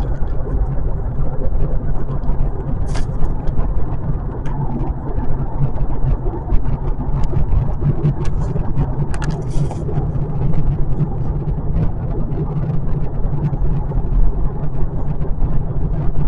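Steady low road and drivetrain noise of a 2025 Kia K4 driving at speed, heard from inside the cabin, with scattered faint ticks.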